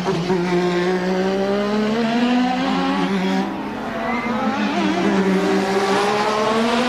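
1988 Formula One racing car engine at high revs, its pitch holding and wavering. It goes quieter for about a second midway, then builds again.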